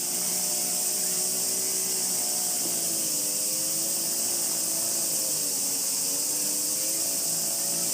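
A steady, dense high hiss of summer cicadas calling in chorus, under a droning motor hum whose pitch slowly wavers up and down.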